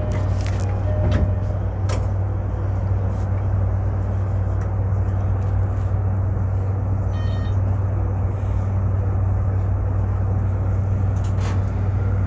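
Toei 5500 series electric commuter train running, heard from inside the car: a steady low rumble and hum from the motors and wheels, with a few sharp clicks and a brief high tone about seven seconds in.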